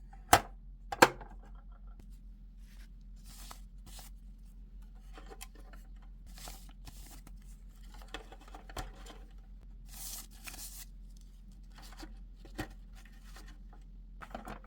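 Toy packaging being handled and torn open by hand: scattered rustling, crinkling and tearing, with two sharp clicks near the start.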